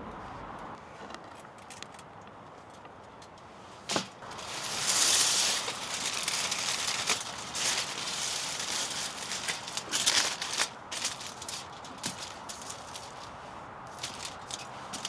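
Hands-on food-prep handling sounds: a single sharp click about four seconds in, then an irregular run of crackling, rustling and light knocks that thins out toward the end.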